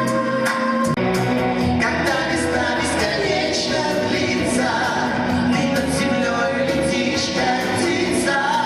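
Live pop band music with a steady drum beat, keyboards or guitars holding chords underneath.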